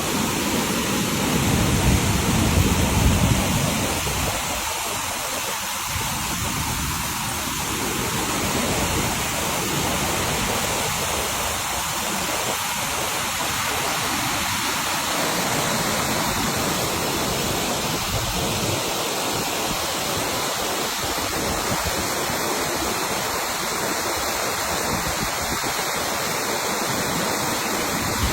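A waterfall: falling water rushing steadily, with a louder, deeper rumble for the first few seconds.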